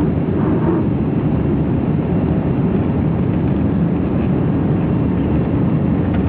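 Airbus A320's jet engines during takeoff: a loud, steady low rumble.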